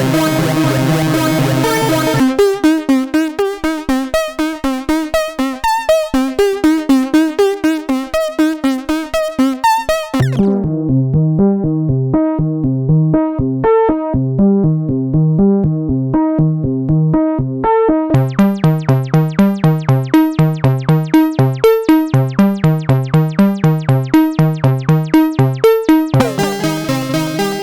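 Roland SE-02 analog monosynth playing a sequenced, repeating run of short notes at about four a second, stepping through factory preset patches. The tone changes abruptly several times: a bright sustained sound, then short bright plucks, then a darker, muffled patch about ten seconds in, then bright again about eight seconds later.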